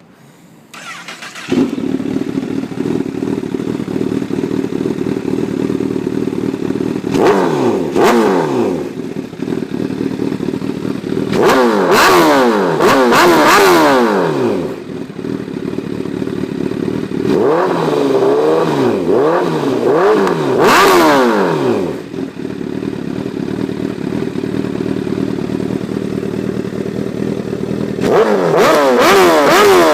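2008 Honda CBR1000RR Fireblade's inline-four engine through a Toce slip-on exhaust with its baffles in, idling warm and blipped repeatedly: short bursts of revs that rise and fall back to idle, in four clusters. It is already pretty loud.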